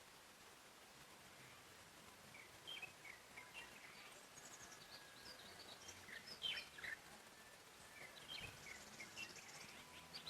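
Songbirds chirping faintly: short, high notes from several birds, scattered and overlapping, starting a couple of seconds in over a soft steady hiss.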